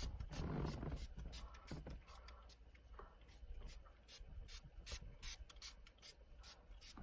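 Trigger spray bottle of Febreze fabric refresher being squeezed over and over, giving short hissy squirts with the trigger clicking, about two or three a second.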